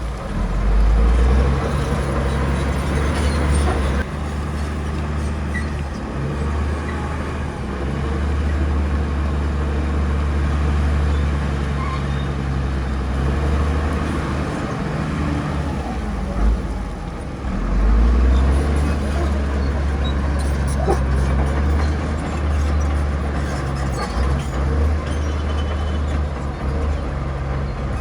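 Heavy diesel earthmoving machinery running, a deep steady engine hum that eases briefly a couple of times and then picks up again.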